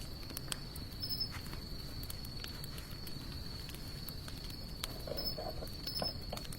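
Wood fire of sawtooth oak and mixed hardwood burning, with scattered sharp crackles and pops. A steady high-pitched tone sounds over a low outdoor hum.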